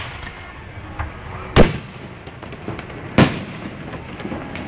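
Aerial fireworks bursting: two loud booms about a second and a half apart, with a smaller bang before them and faint scattered pops and crackles in between.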